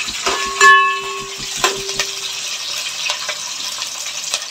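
Oil sizzling in an aluminium pot as fried onions, whole spices and curry leaves are stirred with a metal spatula, with scrapes and clicks of the spatula against the pot. A loud ringing clang of metal on metal a little under a second in.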